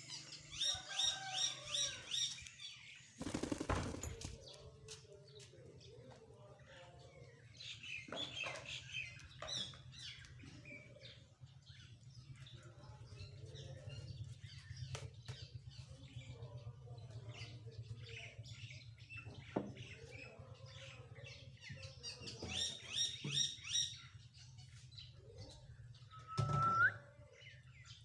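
Pet parrot chirping in quick runs of high calls near the start and again near the end, with a burst of wing flapping about three seconds in and a short rising whistle near the end.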